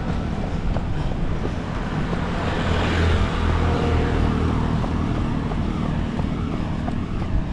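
A road vehicle passing close by, loudest about three seconds in and then fading, over a steady traffic rumble.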